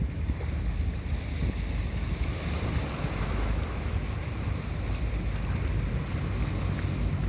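Low, steady rumble of the ship Shoyo Maru's engines as it pulls out of port, under a haze of water wash and wind buffeting the microphone.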